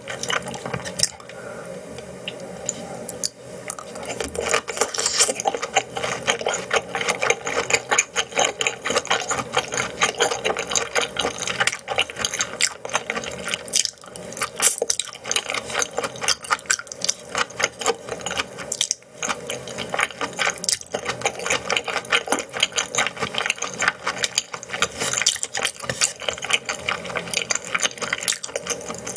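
Close-miked chewing and wet mouth sounds of someone eating raw yellowtail sashimi: a dense, fast stream of small sticky clicks and smacks.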